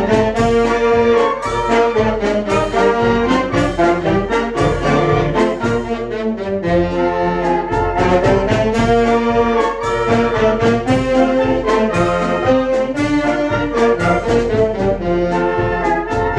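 Children's brass band playing a tune, with trombones and trumpets carrying the melody in sustained notes over a steady percussion beat.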